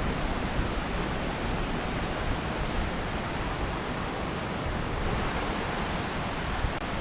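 Steady, even rush of fast-flowing water from a waterfall stream.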